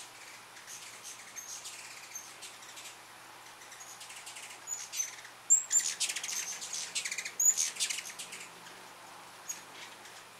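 Birds calling: several rapid, dry chatters mixed with short high chips, the loudest about halfway through.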